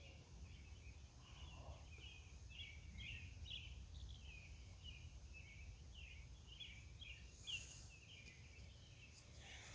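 Faint, rapidly repeated chirping calls, about two to three a second, from a night-calling animal, over a low steady rumble.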